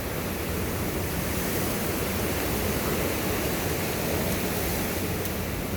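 Very strong wind blowing steadily: a dense, unbroken rushing noise.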